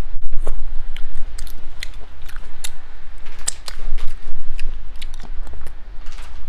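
Close-up eating sounds: seafood being bitten and chewed, heard as a run of short, irregular crackling clicks over a steady low hum.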